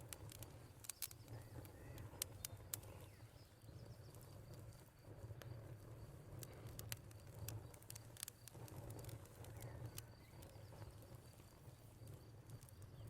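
Quiet wood fire crackling with scattered sharp pops over a low steady rumble, with crickets trilling steadily and birds faintly in the background.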